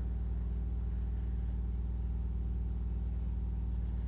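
Regular high-pitched chirping, about four to five pulses a second, like a cricket, growing louder about halfway through, over a steady low hum.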